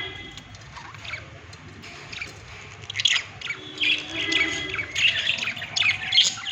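Budgerigars chattering, with quick high chirps and squawks. The calls are sparse at first and come thick and loud from about three seconds in.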